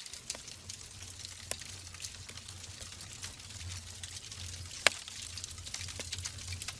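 Wood fire burning in a fireplace: a steady hiss with scattered crackles, and one loud, sharp pop about five seconds in.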